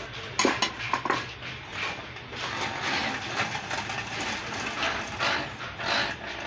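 Sheet metal being worked by hand: a few sharp knocks about half a second and a second in, then a dense run of light clicks and scraping over a steady low hum.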